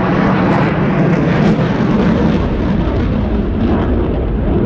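Royal Air Force Eurofighter Typhoon fighter jet flying a display, its twin turbofan engines making a loud, steady jet noise with no break.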